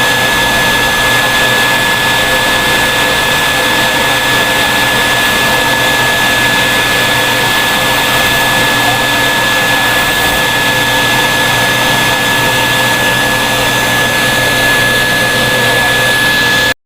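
Vacuum cleaner running steadily with a constant high whine over its rushing air noise, cutting off suddenly near the end.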